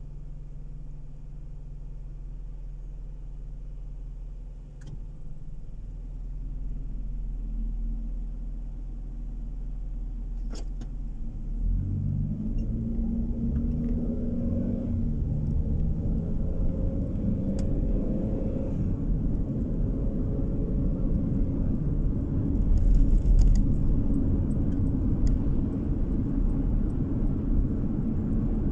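A car's engine idling with a steady low hum, then about twelve seconds in the car pulls away and accelerates, the engine note climbing in pitch. Tyre and road noise builds up and stays loud to the end.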